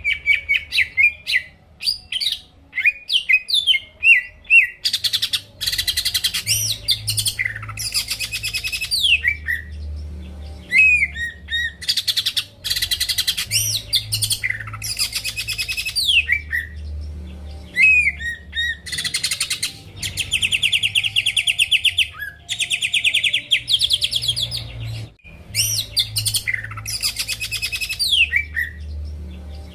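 Cucak ijo (green leafbird) singing continuously and loudly. Short, sliding whistled notes alternate with several long passages of fast, dense chattering trills, each lasting a few seconds.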